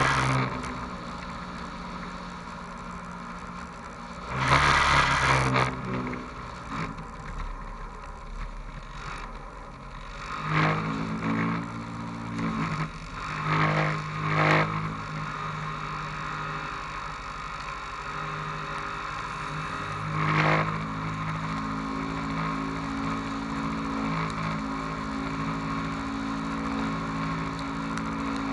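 Autocross car engine heard from on board, running steadily at a low idle with several short rises in revs, the loudest about five seconds in.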